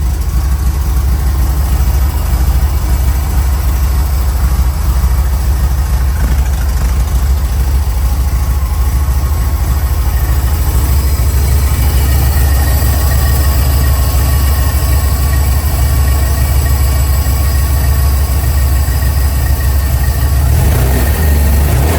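Porsche 914's air-cooled engine idling steadily after a cold start.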